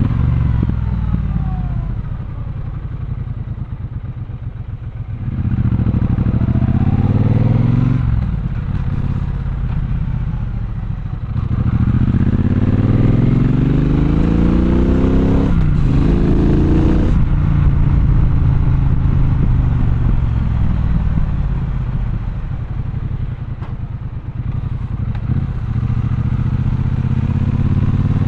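Triumph Bonneville Bobber's 1200 cc parallel-twin engine heard from the saddle. It runs low and quiet for the first few seconds, then the revs climb and drop sharply through gear changes twice. After that it settles into steady running, eases off, and picks up again near the end.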